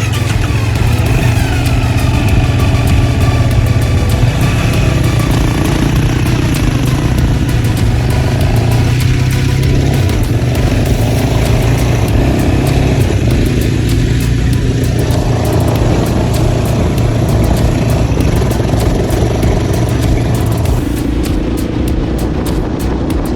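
Dirt bike engine under way, rising in pitch over the first few seconds and then running steadily at speed.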